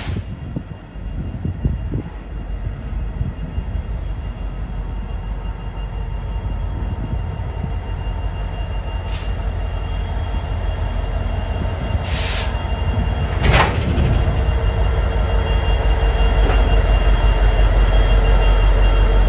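A train rumbling closer, growing steadily louder, with steady high-pitched tones over the rumble and a few short bursts of hiss.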